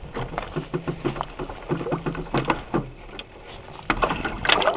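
Water slapping and splashing against the hull of a North Wind 360 radio-controlled sailboat under way, heard from its onboard camera, with a run of small knocks. A louder burst of splashing comes near the end.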